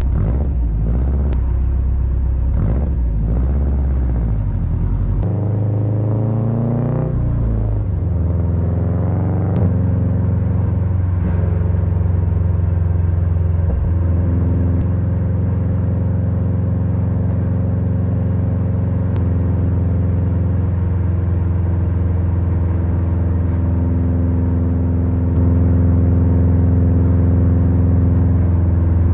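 The 2024 Subaru Impreza RS's 2.5-litre flat-four engine, rising in pitch twice in the first ten seconds as it revs up. It then holds a steady drone that shifts suddenly a few times and gets louder near the end.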